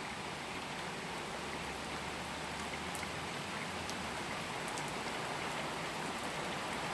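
Steady rain falling in a heavy summer shower, an even hiss of drops with a few sharper drop ticks.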